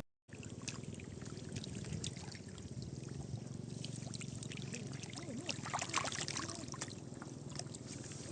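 Shallow muddy water sloshing and trickling, with many small splashes and drips, the busiest about six seconds in; the sound starts after a brief dropout.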